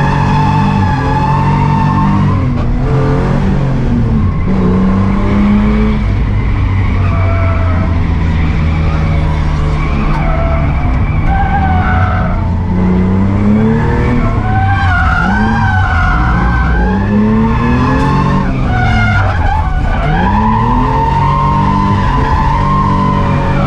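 Barra-swapped R31 Nissan Skyline's Ford inline-six engine revving up and down repeatedly while drifting, with tyres skidding.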